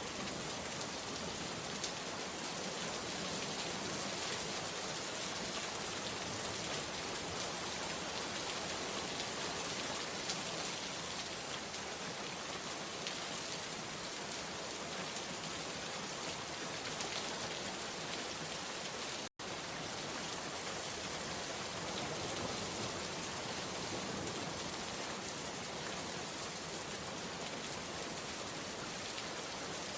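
Steady rain falling, an even patter of drops with no let-up. The sound cuts out for an instant about two-thirds of the way through, then carries on unchanged.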